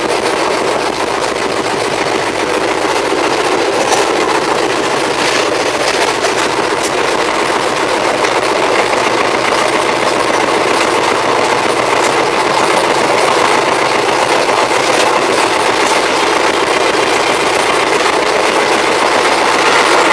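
Passenger train coach running, heard through its open doorway: a steady rumble of wheels on the rails mixed with rushing air, with a few faint clicks, growing slightly louder toward the end.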